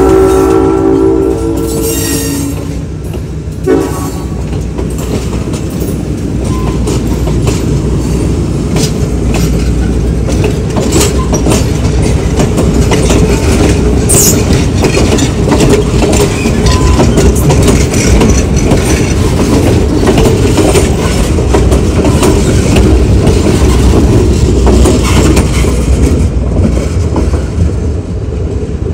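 Conway Scenic Railroad passenger train at a grade crossing: the diesel locomotive's horn chord ends about two seconds in, with one short blip just after. Then the passenger cars roll past with a steady rumble and the clickety-clack of wheels over the rails, easing off near the end.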